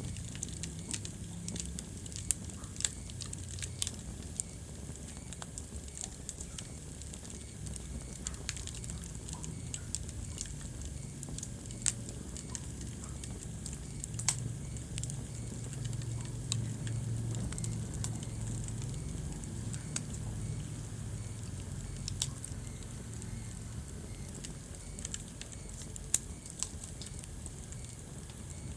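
Wood fire crackling in a fireplace: a steady low rumble of the flames with frequent small crackles and a dozen or so sharper pops.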